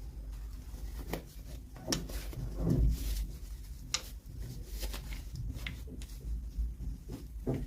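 Scattered light clicks and taps of small plastic toy pieces and packaging being handled, about a dozen, irregularly spaced.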